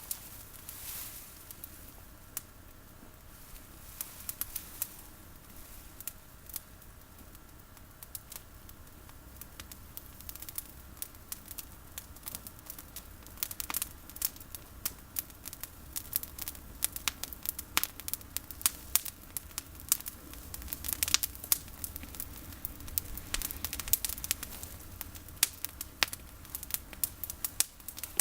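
Bonfire of dry olive prunings burning, with irregular crackles and sharp snaps of the wood. The snaps come sparsely at first and grow much denser and louder about halfway through.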